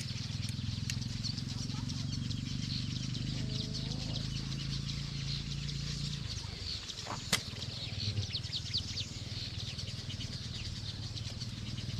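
Many small birds chirping and twittering together over a steady low rumble. A single sharp click comes about seven seconds in, followed by a few soft bumps.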